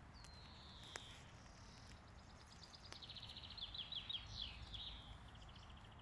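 A songbird singing: a single high whistled note near the start, then from about two seconds in a rapid trill running into a string of quick, high notes, loudest around four seconds in. A sharp tick sounds about a second in.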